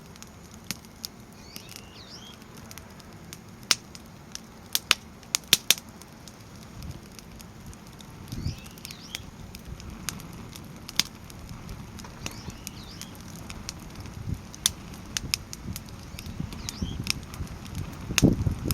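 Firewood stacked in a crib (igeta) burning in a fire stand: scattered sharp crackles and pops over a low steady rush of flame, with a louder burst of crackling and low rumble near the end.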